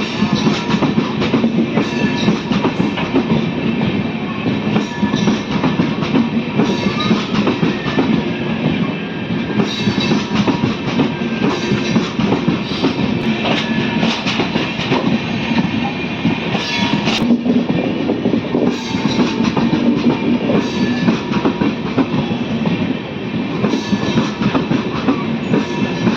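Passenger train running on the track with a steady rumble and rattle of wheels and carriages.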